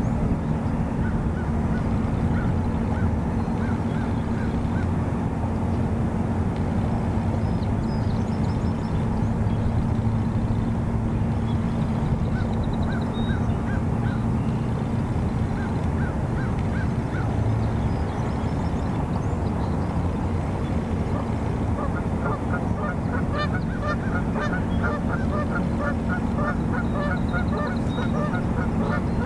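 Birds calling in strings of short, repeated notes, in scattered clusters at first and much thicker over the last quarter, over a loud steady low rumble with a faint hum.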